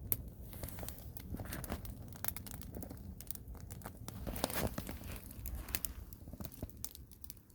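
Wood fire crackling, with irregular small snaps and pops.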